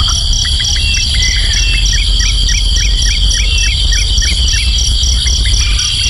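Steady, shrill insect chorus of crickets or cicadas, one band pulsing evenly, with a bird calling over it in rapid short rising chirps about four a second. A low rumble runs underneath.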